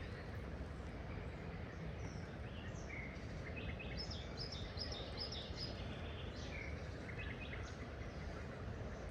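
Small songbirds chirping in several quick runs of short high notes over a steady rush of flowing water.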